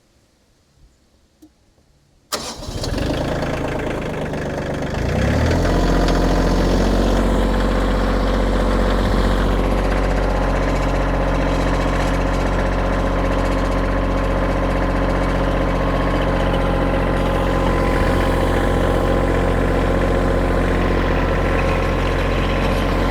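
Kioti diesel tractor engine starting: about two seconds in it cranks, catches and rises in speed about five seconds in, then runs steadily.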